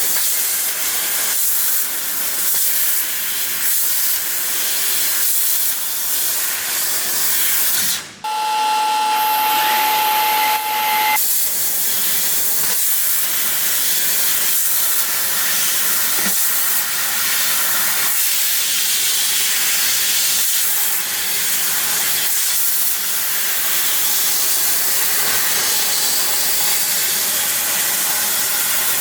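A 1500 W fiber laser cutter cutting 4 mm stainless steel sheet, giving a loud, steady hiss from the cutting head. About eight seconds in the hiss briefly gives way to a steady high tone for about three seconds, then resumes.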